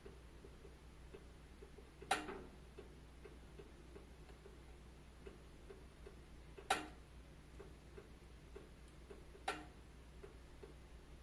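Wood fire crackling in a fireplace: frequent faint ticks, with three sharper, louder pops about two, six and a half, and nine and a half seconds in.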